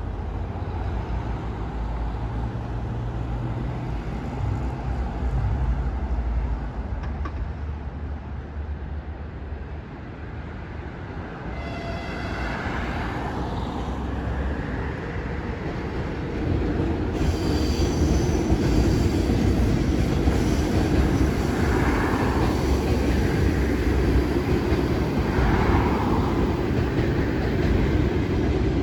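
A ChS7 electric locomotive and its passenger coaches moving through a station: a steady low hum in the first half, a brief tone about 12 s in, then a louder, steady rolling rumble of coaches going by from about halfway, with a few short wheel squeals.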